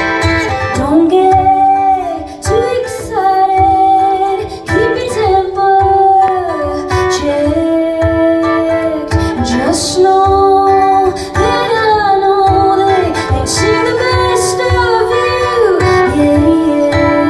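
A woman singing with long held notes over strummed acoustic guitar.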